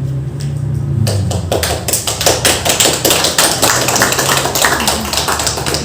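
A small group clapping, with separate claps easy to pick out. It starts about a second in and dies away near the end.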